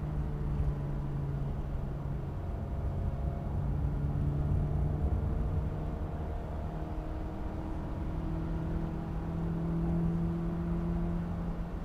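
Car engine heard from inside the cabin during a lap on a wet circuit, running at a steady note under a low road rumble. The note rises a little in the second half as the car picks up speed out of a corner.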